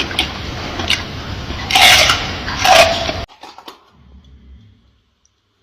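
A gorilla chewing and crunching food loudly, with sharp cracks and a couple of louder crunches. It cuts off abruptly a little past three seconds in, leaving only faint low sounds.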